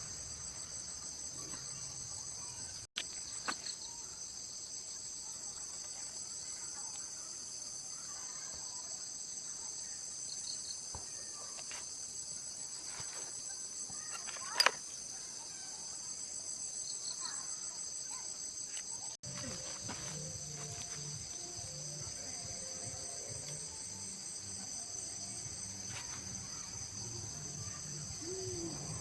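Steady chorus of insects, crickets by their sound, several high pitches held without pause. A single sharp click about halfway through, and the sound drops out for an instant twice.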